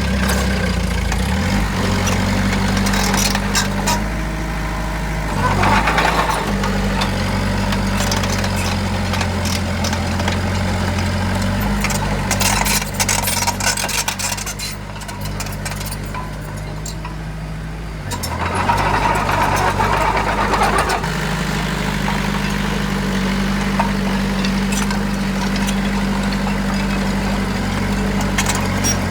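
Heavy construction machine's diesel engine running steadily, with louder surges about six seconds in and again around nineteen to twenty seconds in, and a quieter stretch just before the second surge.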